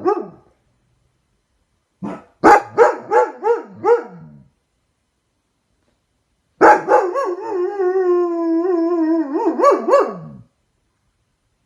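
A pet dog gives a quick run of about five barks, then after a pause lets out one long, wavering howl of about four seconds that breaks into a couple of yelps at its end.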